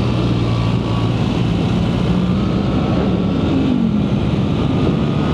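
BMW R 1300 GS's boxer-twin engine running under way, holding a fairly steady note that drops slightly about three to four seconds in, over a steady rushing noise.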